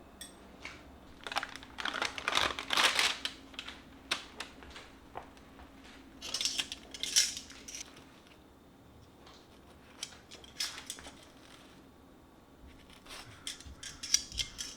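Small objects being handled: bursts of clicking and scraping a few seconds apart, over a faint steady hum.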